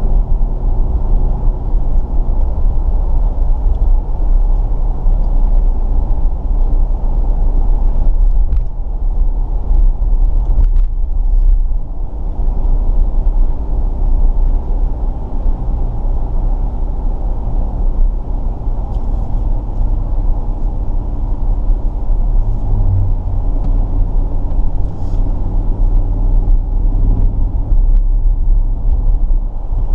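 Jeep engine running steadily as the vehicle drives, with a low rumble of tyres on the road; the engine pitch shifts a few times, rising noticeably about three-quarters of the way through.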